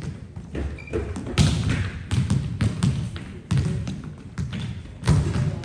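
Repeated thumps and knocks on a hard surface, several a second at uneven spacing, each with a hard low thud and a little ring.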